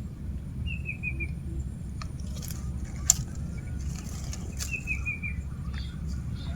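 A bird repeats a short, falling run of chirps twice, about a second in and again around five seconds, over a steady low rumble. A single sharp click sounds about three seconds in.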